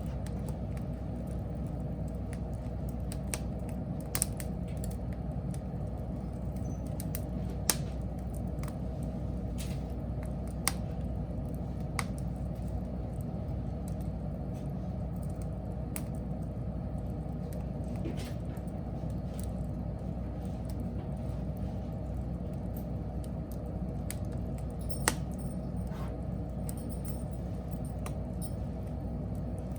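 Wood fire burning with a steady low rumble, broken by irregular sharp crackles and pops from the burning wood.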